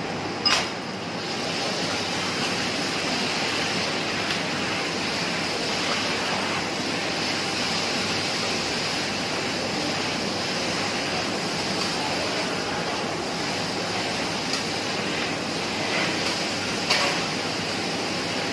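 Steady sizzling of food on a hot teppanyaki griddle, with a sharp click about half a second in and another near the end.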